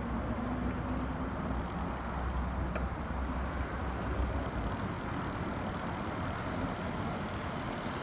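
Steady rolling noise of an e-bike ride, with a low rumble that eases off about halfway through.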